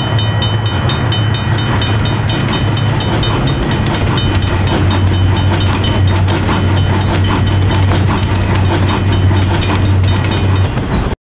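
Train passing, with a steady low rumble and wheels clicking over the rail joints. The sound cuts off suddenly near the end.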